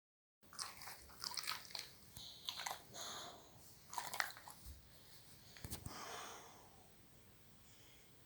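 Boxer dog's mouth noises, quiet: a scattered run of soft wet smacks and clicks like lip-licking and chewing, with two breathy puffs, fading out after about six seconds.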